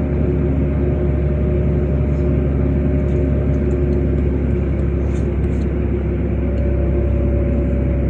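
LiAZ 5292.65 city bus driving, heard from inside the passenger cabin: a steady low engine and road rumble with a constant drivetrain hum, and a few faint rattles about five seconds in.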